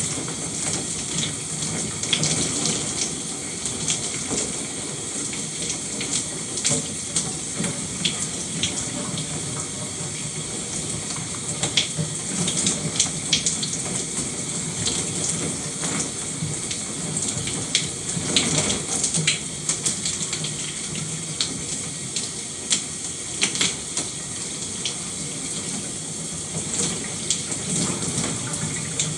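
Shower running steadily, water spraying and splattering, with frequent sharp splashes of drops.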